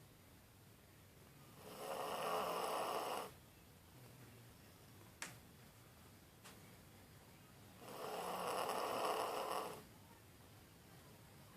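A beagle snoring in its sleep: two long snores about six seconds apart, each lasting one and a half to two seconds, with a short click between them.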